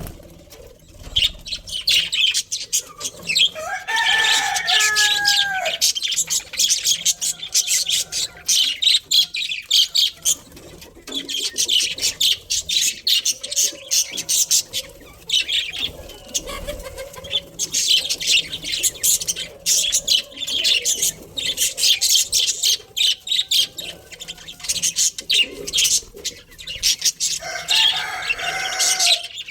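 A flock of budgerigars chattering: a dense, continuous run of quick high chirps and warbles. A louder, lower bird call stands out about four seconds in and again near the end.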